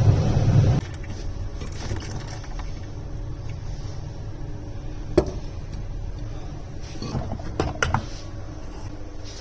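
A loud, steady low machine hum cuts off suddenly under a second in, leaving a faint hum. A few sharp clicks and clinks of things being handled follow, one about halfway through and a small cluster near the end.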